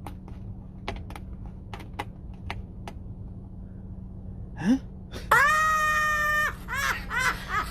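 A cat gives one long, drawn-out meow at a steady pitch about five seconds in, then a string of shorter meows that waver up and down. Before that there is only a low hum with a few faint clicks.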